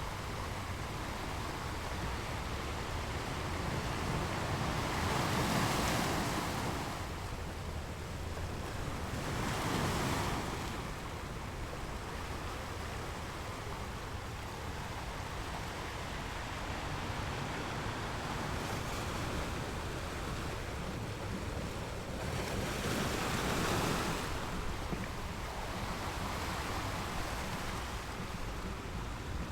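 Ocean waves rolling in and breaking: a continuous wash of surf, with three louder breakers rising and falling, about a sixth, a third and four-fifths of the way through.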